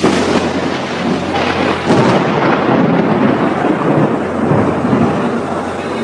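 Close thunder: a sudden crack at the start, then rolling rumbles with a second surge about two seconds in.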